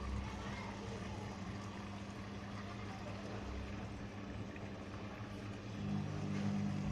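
IFB automatic washing machine running its wash cycle: a steady motor hum with water churning in the drum. The hum gets louder, with a new tone, near the end.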